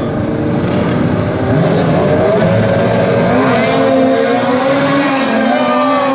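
Racing lawn mower engines at full throttle down a drag strip, the pitch climbing over the first few seconds, then holding, then dropping away near the end.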